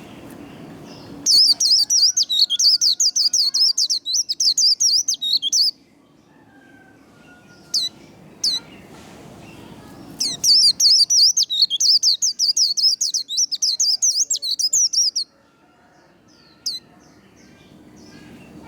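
White-eye (vành khuyên) singing its rapid 'líu' warble: two long bouts of fast, high twittering notes, each several seconds long, with a few single sharp calls in the pause between them and once more near the end.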